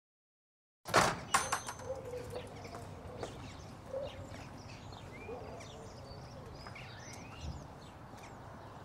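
Birds chirping over a quiet outdoor ambience, opening with two sharp knocks about a second in.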